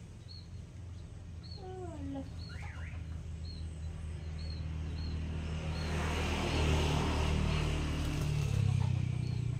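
A motor vehicle approaches and passes, its engine and road noise growing steadily louder and peaking near the end. Over it a bird gives a short high chirp about once a second.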